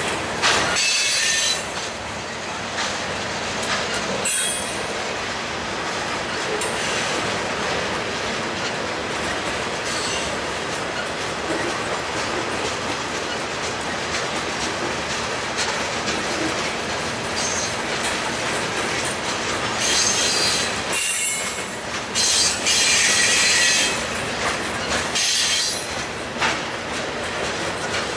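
Freight cars rolling past close by, a steady rattle and clatter of steel wheels over the rail joints, with short high-pitched wheel squeals about a second in and around four seconds, and a longer run of squealing about three-quarters of the way through.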